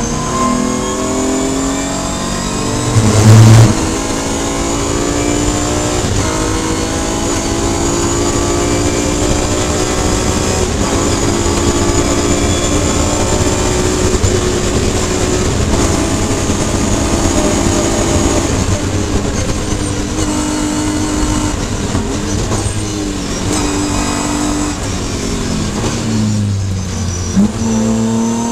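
BMW E36 M3's straight-six engine heard from inside the stripped cabin, revs climbing and dropping again and again as it shifts up and down through its Samsonas sequential dogbox. A loud thump comes about three seconds in.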